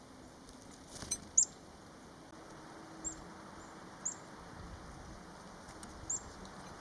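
A small songbird giving short, high chirps, each a quick falling note, about five times with gaps of one to two seconds. A couple of light clicks come about a second in.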